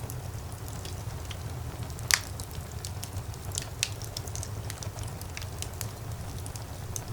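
Wood fire burning in a fireplace, a low steady rumble of the flames with scattered crackles and small pops, one louder pop about two seconds in.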